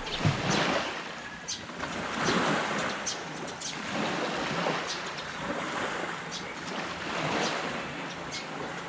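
Sea waves washing onto a beach: a steady hiss of surf that swells and eases in uneven surges, with a brief low rumble of wind on the microphone right at the start.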